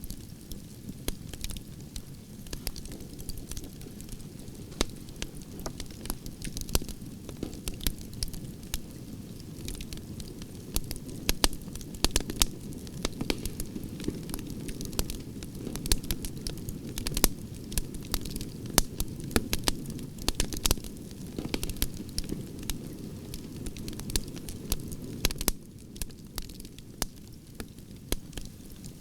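Burning branches in a campfire crackling and popping over a steady low rumble of flames, with sharp pops coming thickest in the middle.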